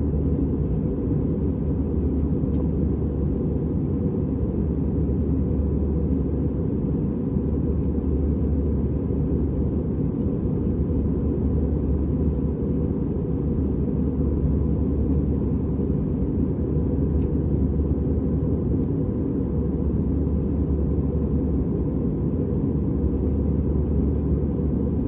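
Airbus A320 cabin noise in flight: a steady low roar of the engines and airflow as heard from a passenger seat, with a faint steady hum.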